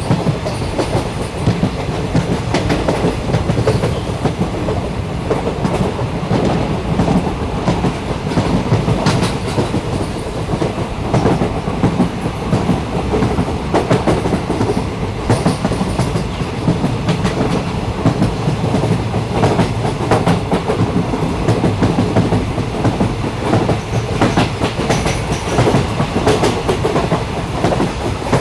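Passenger train in motion heard from inside the carriage: a steady rumble with frequent, irregular clicks and clacks of the wheels running over the rails.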